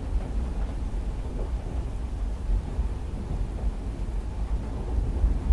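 Steady deep rumble of a moving train carriage heard from inside, with rain on the window.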